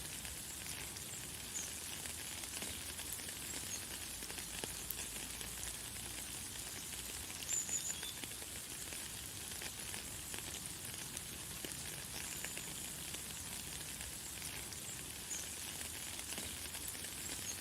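Light, fine rain falling steadily, a hiss of many small drop ticks. Brief high bird chirps come through several times, the loudest about halfway through.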